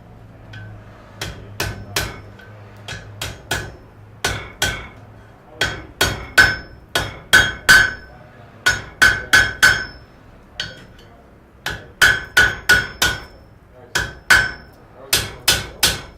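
Blacksmith's hammer striking metal on an anvil, about two to three blows a second in runs with short pauses, each blow ringing. The first few blows are lighter.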